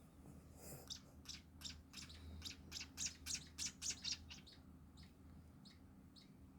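Nestling munias giving rapid, high-pitched begging chirps as they are fed, about three a second, loudest in the middle and thinning out near the end.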